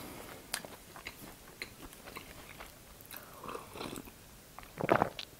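Close-miked chewing and small mouth clicks of someone eating a cream-filled puff pastry horn. Near the end comes a louder sip from a mug of tea.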